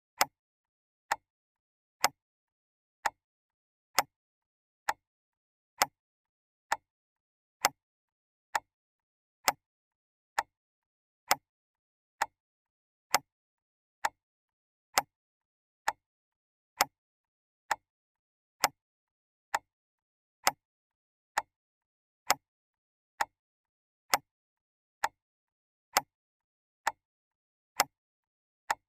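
Clock ticking steadily, one sharp tick a little faster than once a second, the ticks alternating slightly louder and softer like a tick-tock.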